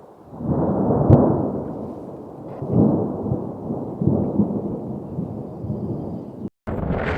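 Thunder rumbling in several rolling swells, with a sharp click about a second in. Near the end the sound drops out for a moment and gives way to a steady rush of wind on the microphone.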